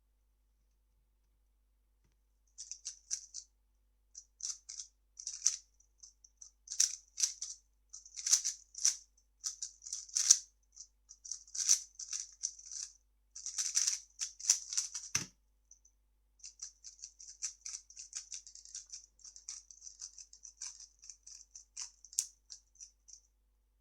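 3x3 speedcube being turned fast, a rapid plastic clicking and rattling of layer turns in bursts. After about twelve seconds of turning comes a single thump, then more lighter turning.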